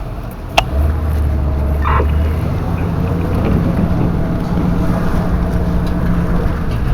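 Car engine and road noise inside the cabin of a vehicle driving slowly, a steady low hum whose pitch steps up about two and a half seconds in. There is a single sharp click just over half a second in.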